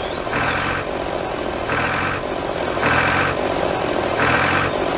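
Tractor engine running while the tractor reverses, its sound swelling in a regular pulse about every second and a half over a steady hum.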